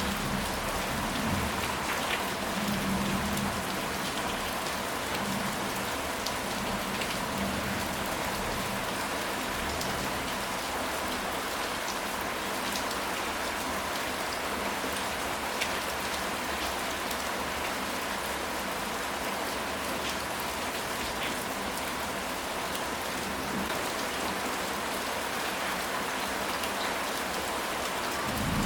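Steady rain falling: an even, dense hiss with scattered louder drops. A low rumble dies away in the first few seconds.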